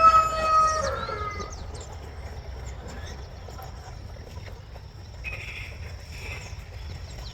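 Rooster crowing: the long held end of the crow falls in pitch and dies away about a second and a half in. After it there is only a faint outdoor background with a thin, steady high tone.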